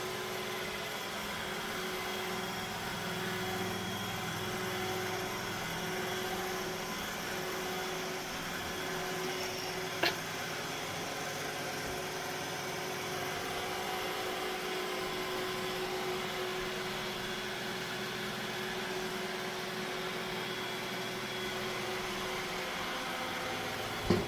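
Roomba robot vacuum running with a steady motor hum and brush whir, with a single sharp click about ten seconds in.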